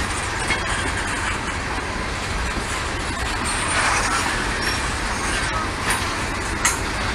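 Norfolk Southern freight train rolling past: a steady rumble with a few sharp clicks.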